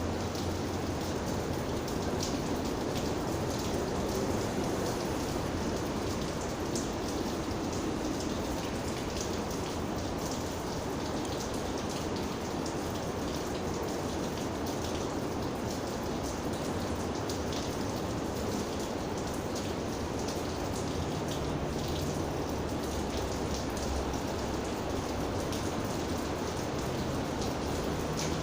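Steady rainfall, with individual raindrops ticking now and then over the even hiss.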